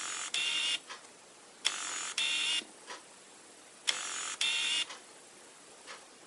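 Tamron AF 28-75mm f/2.8 zoom lens focusing: three autofocus cycles about two seconds apart, each a click followed by two short, buzzing whirs of the focus drive, with a fainter click between cycles. This is the unusual autofocus noise that the owner asks about, unsure whether it is normal.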